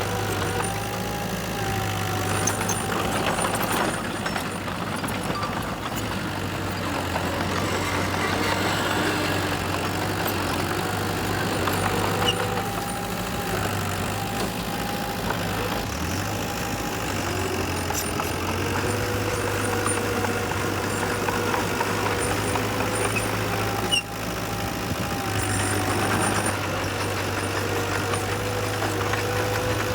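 Heavy diesel engines of earthmoving machinery (dump trucks and a bulldozer) running steadily, with a higher engine tone that slowly rises and falls. The sound drops briefly about two-thirds of the way through.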